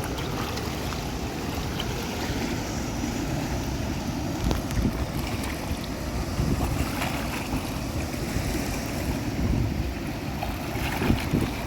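Flowing water rushing steadily, with a low rumble of wind on the microphone.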